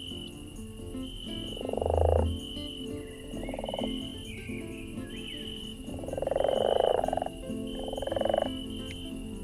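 A frog croaking in four pulsed calls, the longest about a second and a half, over a high insect chirp that repeats about every second and a half.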